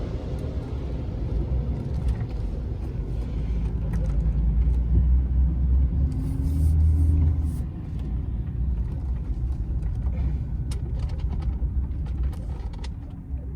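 A truck's engine running with a steady low rumble, a little louder for a few seconds mid-way.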